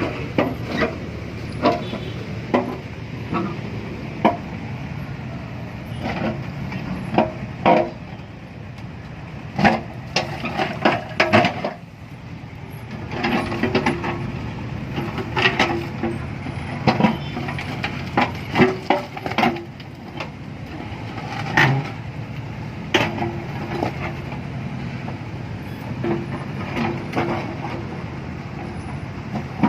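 A machine engine running steadily, with many sharp, irregular knocks and clanks over it, as in mud being dug out of a fishpond.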